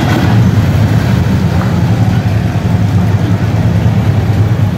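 Harley-Davidson touring trike's V-twin engine running at a slow roll, a steady low rumble with no revving.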